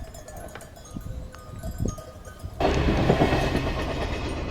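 Quiet background with a few scattered clicks, then a loud, steady rumbling noise cuts in suddenly about two and a half seconds in.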